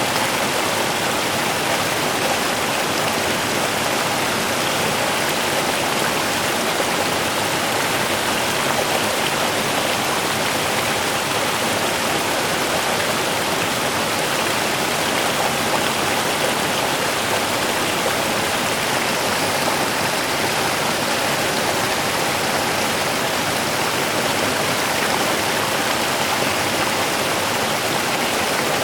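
A small river running steadily over rocks: an even, unbroken rush of water.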